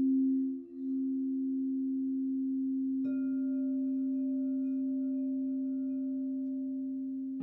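Crystal singing bowls ringing in long, steady, overlapping tones. The two lower tones pulse slowly in loudness. About three seconds in a higher bowl is struck and rings on over them.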